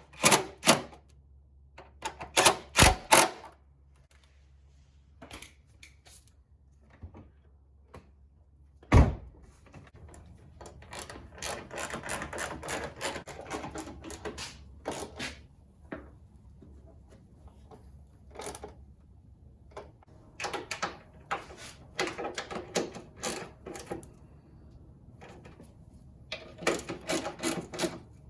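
Sharp metallic knocks and runs of quick clicking from hand tools and car body parts being worked on.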